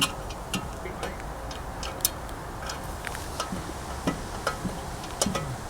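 Scattered light clicks and taps of small metal boiler parts and a hand tool being handled and tightened, irregularly spaced, over a faint steady background.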